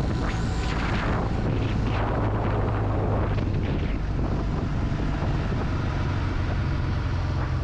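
Kawasaki W800 Cafe's air-cooled parallel-twin engine running at a steady cruising speed under way, with wind rushing over the microphone.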